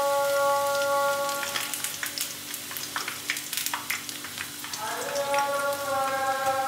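Pakoras (gram-flour fritters) frying in hot oil in a wok, a steady crackling sizzle of many sharp pops. Held background-music notes play over it, fading out about a second and a half in and coming back with a short upward slide near the end.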